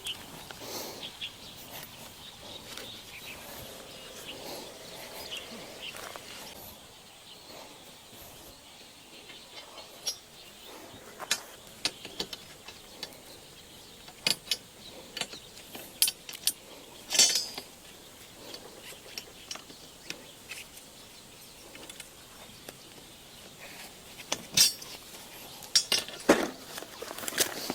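Metal camping-gear parts being handled: scattered clinks and knocks, irregular and several seconds apart, coming more often in the second half, with soft rustling between them.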